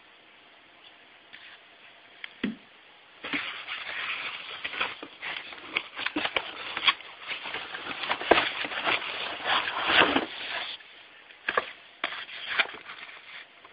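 Objects being handled: a single knock, then a long run of crackling and scraping with many sharp clicks, dying down near the end to a few more clicks.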